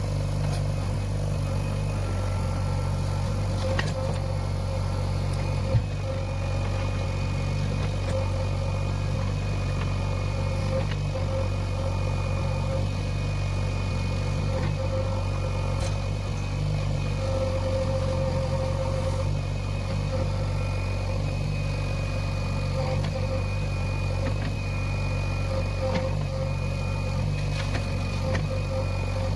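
Backhoe loader's diesel engine running steadily while working, with a steady higher tone over the low hum and one sharp knock about six seconds in.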